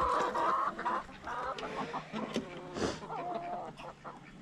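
Chickens clucking, loudest in the first second, then shorter scattered clucks.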